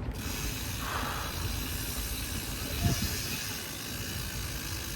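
Steady hissing rush of air and rolling noise while riding a BMX bike, with a single knock about three seconds in.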